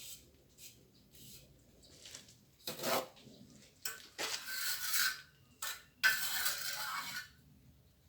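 Plastering trowel scraping and spreading mortar in four strokes, the longest near the end.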